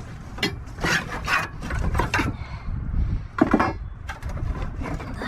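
Scrap wood being shifted and dragged by hand: a handful of irregular scrapes and knocks.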